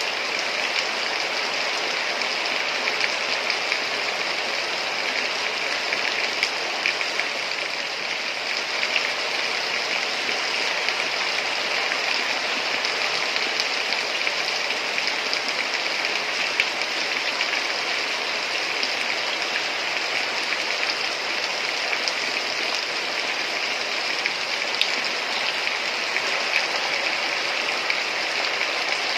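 Heavy rain falling steadily: a dense, even hiss with scattered small drop ticks.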